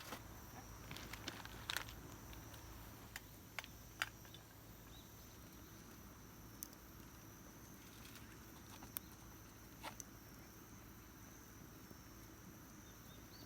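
Faint, scattered sharp clicks and ticks, about six over ten seconds, over a quiet steady background hiss.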